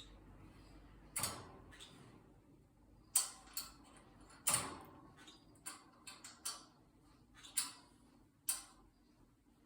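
A green-cheeked conure pecking and knocking at its foraging toy: about ten irregular sharp clicks and knocks, the loudest about three and four and a half seconds in.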